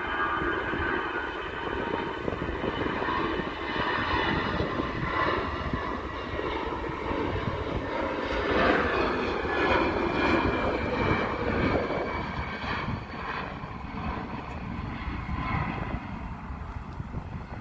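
Jet airliner's engines passing: a heavy rumble with a high whine of several fan tones. It grows loudest about halfway through and then fades a little.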